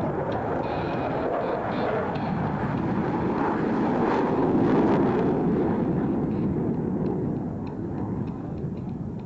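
F-16C Fighting Falcon's jet engine on takeoff: a loud, broad rush of jet noise that builds to a peak about halfway through, then falls away as the aircraft passes and climbs out.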